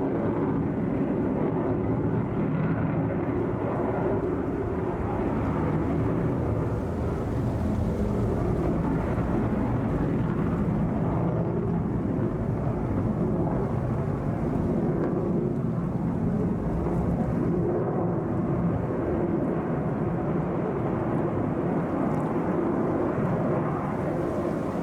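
Sukhoi Su-57 fighter jet in flight, its engine noise a steady, continuous roar.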